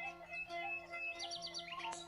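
Background music with long held notes, over which a small bird chirps: a quick run of four short high notes about a second in, then a few more chirps near the end.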